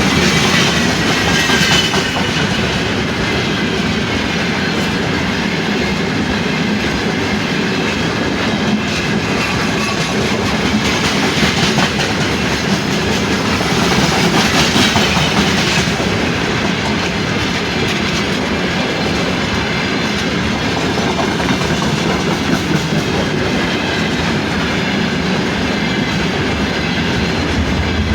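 Freight train wagons rolling past, steel wheels clattering over the rails in a steady, loud rumble, with a few brief brighter, higher-pitched stretches of metallic ringing.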